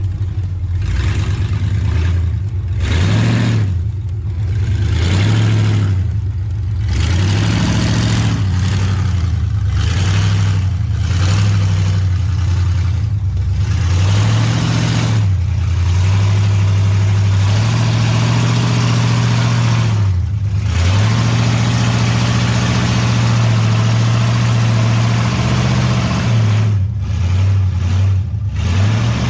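A 5.3-litre V8 engine in a Honda Civic, revving up and down repeatedly under load while pulling a fifth-wheel trailer, with stretches held at steady revs in the middle.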